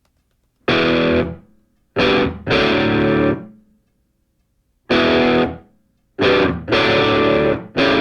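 Music: distorted electric guitar chords struck in loud stop-start hits, each ringing for about half a second to a second, with full silences between them.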